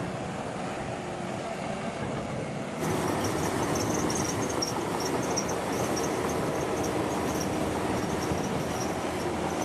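Heavy construction machinery running steadily. About three seconds in the sound switches abruptly to a louder, noisier stretch of machine running, with faint high squeaks repeating over it.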